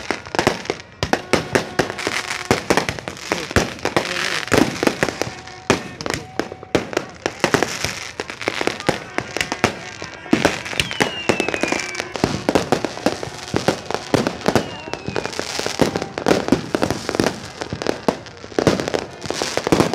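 Many fireworks going off in quick succession: a dense, continuous run of bangs and crackles. A couple of short falling whistles cut through around the middle.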